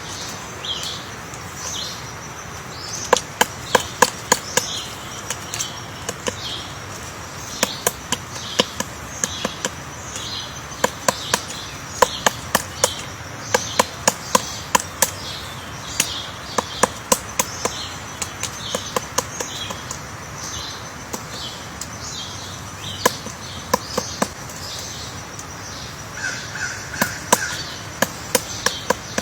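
Woodpecker chiselling into wood while digging out its nest hole: sharp taps in irregular bursts of a few quick strikes with short pauses between. Short high bird calls repeat about twice a second behind the tapping.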